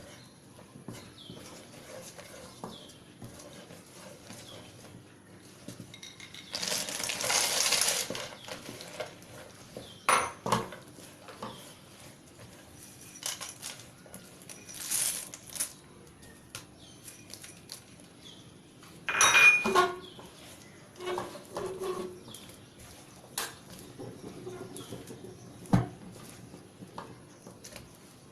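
Kitchen utensils and cookware clinking, knocking and scraping at irregular intervals, with a longer rustling rush about a quarter of the way in.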